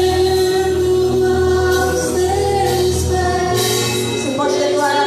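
Live gospel worship music: voices singing held notes over a band with bass and drums, cymbals struck now and then.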